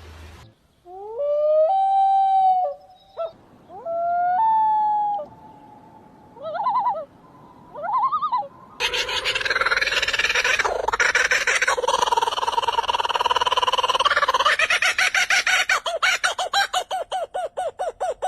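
A sequence of bird calls: short whistled calls that slide upward in pitch, then wavering calls, and from about nine seconds in a loud harsh rasping racket that breaks into fast, evenly repeated pulses near the end.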